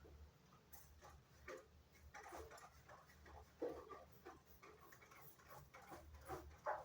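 Faint, irregular small clicks and knocks over a low steady hum. The two loudest come about three and a half seconds in and near the end.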